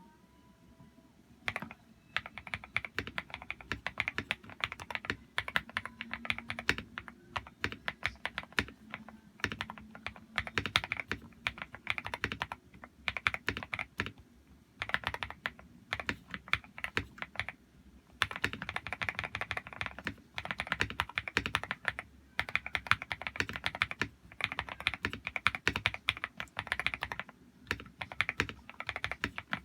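Typing on a modded Zifriend ZA68 mechanical keyboard with lubed KTT Kang White linear switches, PBT keycaps, tape mod and foam inside: a creamy clack of keystrokes in quick runs with short pauses between. The typing starts about a second and a half in.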